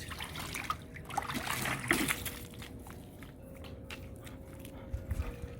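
Water trickling and sloshing, with scattered small splashes and clicks.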